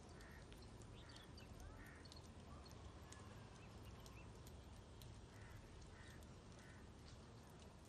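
Faint, distant bird calls over quiet open air: a few short calls in a cluster during the first two seconds and again around five to six seconds in, with some fainter high chirps.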